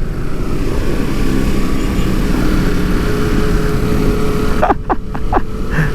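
Kawasaki motorcycle engine running steadily while riding, with wind rushing over the helmet microphone. A few short sharp sounds come about five seconds in.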